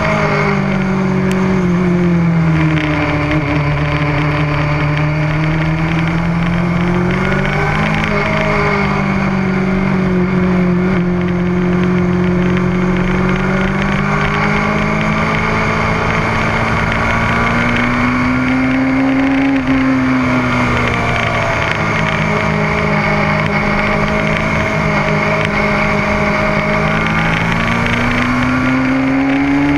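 Motorcycle engine running hard through a track session, its pitch falling and climbing with the throttle. The revs drop a couple of seconds in, climb to a peak about 19 seconds in and drop sharply, then rise again near the end, over a steady rush of noise.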